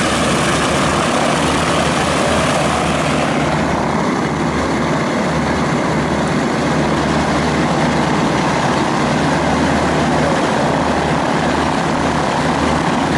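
Lockheed Lodestar's radial piston engines and propellers running steadily after startup. The upper hiss becomes weaker about three and a half seconds in.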